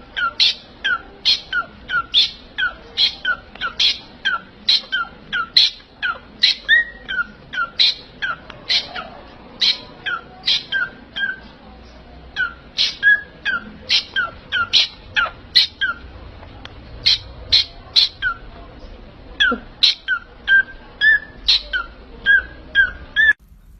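A parrot giving a rapid series of short, sharp whistled chirps, about two a second, each swooping down in pitch. There are a few brief pauses, and the calls stop abruptly near the end.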